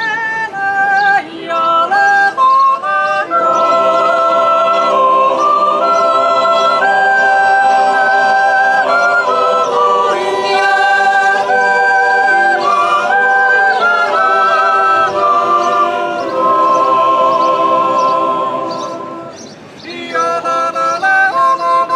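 Swiss yodel choir singing a cappella in several parts, holding sustained chords with yodel leaps between notes. A phrase fades out about nineteen seconds in, and a new one begins a moment later.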